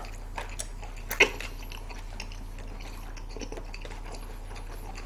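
Close-miked eating sounds: soft chewing with a few light clicks of chopsticks against food and containers, the sharpest about a second in, over a steady low hum.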